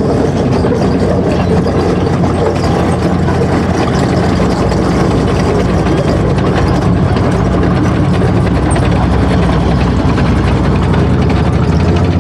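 Heavy military vehicle diesel engines running steadily as armoured vehicles move past in a column.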